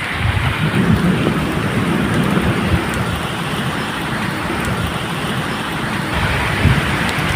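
Medium rain falling steadily, with a low rumble of thunder underneath.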